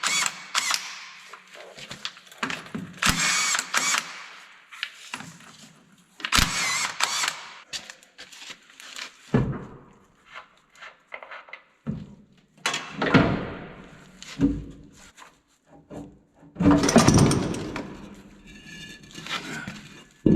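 Short power-tool bursts, about a second each and several times over, with knocks and clanks of metal parts as a Bobcat skid steer is taken apart.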